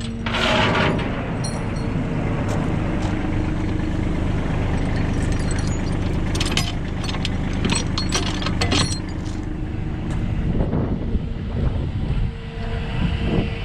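Engine running steadily, with scattered sharp metallic clicks and clanks in the middle.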